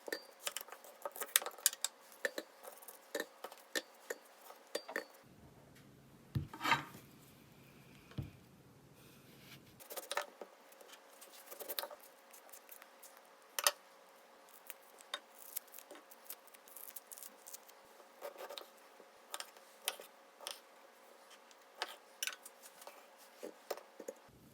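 Kitchen utensils and dishes clinking and tapping in many short, separate clicks.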